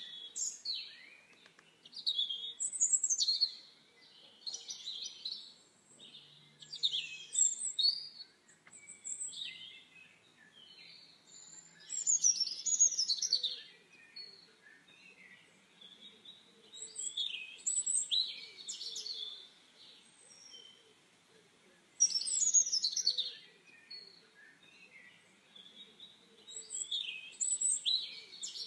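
Small birds chirping and twittering in quick, high-pitched bursts every second or two, with short pauses between.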